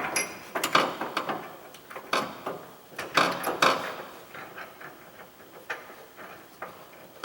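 Irregular metal clanks, knocks and rattles as a car body is worked onto its frame, with a cluster of sharper clanks about three seconds in and lighter ticks after.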